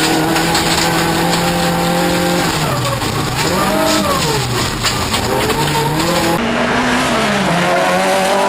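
Toyota Corolla off-road racing car's engine running hard: the revs hold steady, drop and climb again several times as the driver lifts and gets back on the throttle. Underneath is a constant rush of tyre and gravel noise with scattered knocks.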